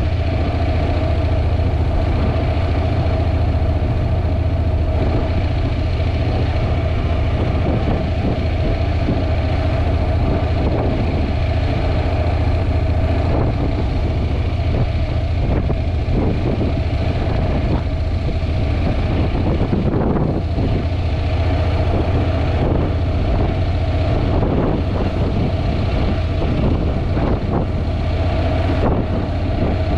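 Heavy wind buffeting on a GoPro microphone on a moving Honda NC750X motorcycle, with the bike's parallel-twin engine running steadily beneath it.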